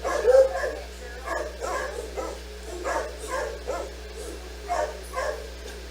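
A dog barking in short, repeated barks, about a dozen at uneven intervals, the loudest right at the start.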